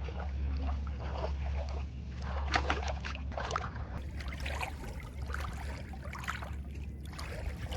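River water sloshing and splashing in irregular bursts, as from someone moving through the water, over a steady low hum.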